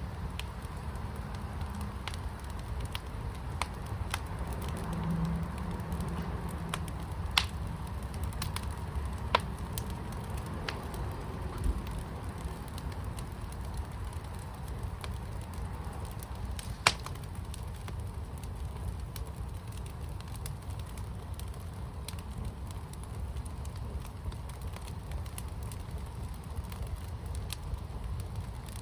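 Fire burning in a fire pit, a steady low rumble with sharp crackles and pops scattered through, a few of them louder, the sharpest a little past halfway.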